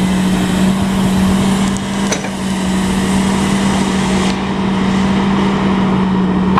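A Cat GLP40 LP-gas forklift runs steadily, with a constant low hum under the engine noise. A couple of faint clicks come about two seconds in.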